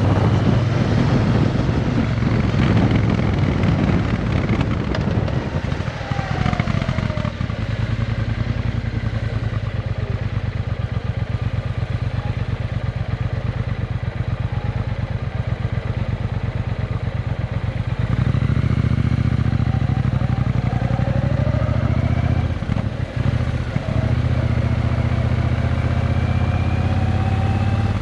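Triumph Bonneville T120 parallel-twin engine running through a Vance and Hines aftermarket exhaust with X-pipes, a steady deep pulsing. It eases off about six seconds in, picks up again around eighteen seconds, and dips briefly a few seconds after that.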